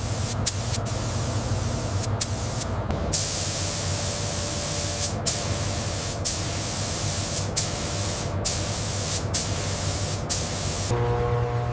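A loud, steady pressurised hiss, cut by short breaks and clicks every second or so, over a low steady hum.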